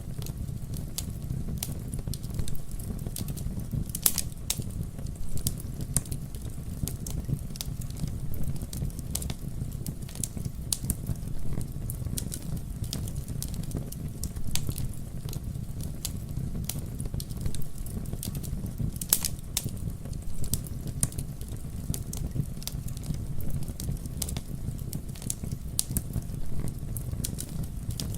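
Wood fire burning with a steady low rumble and irregular sharp crackles and pops, a couple of louder snaps about 4 and 19 seconds in.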